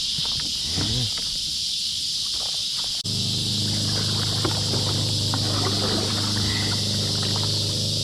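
Steady high-pitched chorus of evening insects such as crickets or katydids. About three seconds in, after a brief dropout, a steady low mechanical hum joins in.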